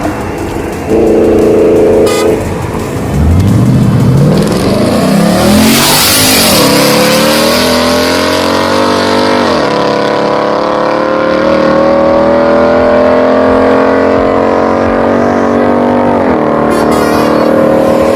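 Ford Mustang GT V8 with a loud aftermarket exhaust accelerating hard: the engine note climbs steeply, drops at a gear change about six seconds in and again near ten seconds, then rises slowly through the next gear.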